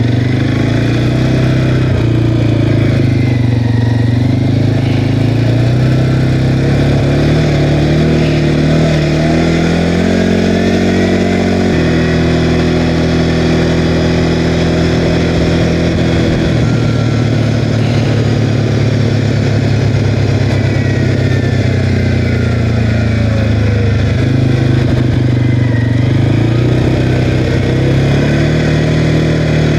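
CFMOTO Cforce 520L quad's single-cylinder four-stroke engine running on the move, its pitch rising and falling with the throttle: higher for a couple of seconds near the middle, dropping back, then rising again near the end.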